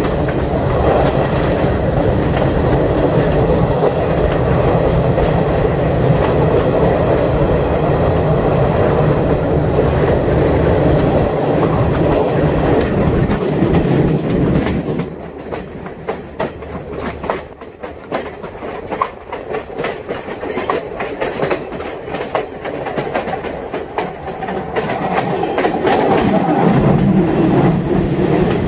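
Passenger train running along the track, a dense rumble with wheels clicking over the rail joints. About halfway through the rumble suddenly drops away, leaving a string of separate wheel clicks, and it builds up again near the end.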